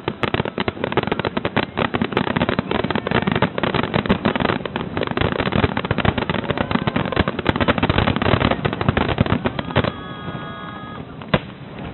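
Fireworks finale: a dense, rapid barrage of firework bursts and crackling that falls away about ten seconds in, with one more single bang shortly before the end.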